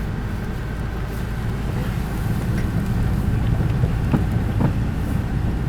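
Steady low rumble of a car driving, heard from inside the cabin, with two faint knocks about four seconds in.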